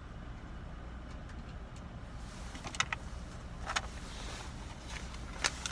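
Steady low hum of a car engine idling, heard from inside the cabin, with three short sharp clicks in the second half.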